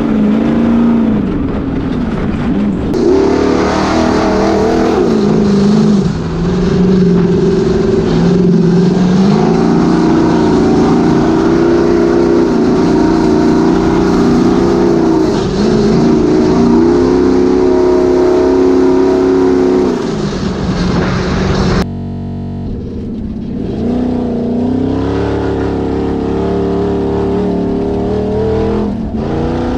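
Ultra4 race car's LQ4 V8 engine running hard, its pitch rising and falling again and again as the throttle is worked. About two-thirds of the way in the sound drops off abruptly, then picks up again.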